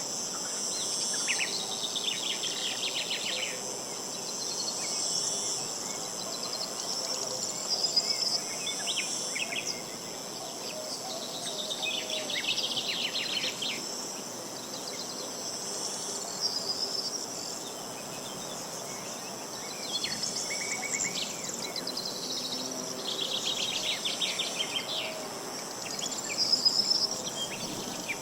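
Outdoor insect chorus: a steady high-pitched shrilling, with short trills of rapid pulses that come back every several seconds.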